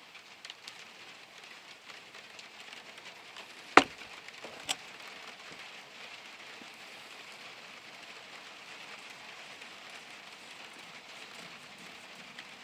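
Steady faint hiss with two sharp knocks about a second apart, the first much louder than the second.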